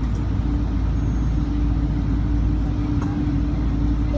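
Steady cabin noise inside a Boeing 777-200ER airliner: a deep engine and airframe rumble with a steady hum over it.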